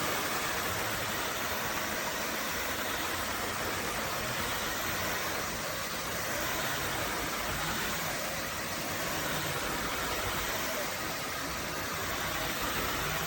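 Narwal S20 Pro cordless vacuum mop running steadily in turbo mode, an even motor and airflow noise that holds without change.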